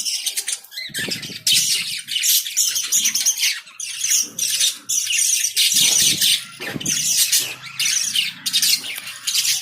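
A flock of pet lovebirds chattering nonstop, with many shrill chirps and squawks overlapping. There are a few dull thuds about a second in and again around six to seven seconds. The sound stops abruptly at the very end.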